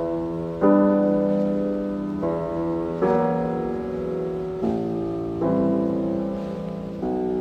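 Piano playing slow held chords, a new chord struck about every second and a half and fading until the next.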